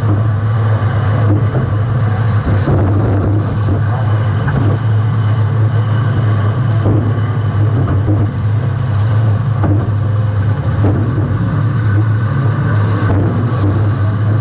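Demolition derby compact car's engine running loud, recorded by a camera mounted on the car's rear, with a steady low rumble and a series of short knocks and thuds from hits and jolts.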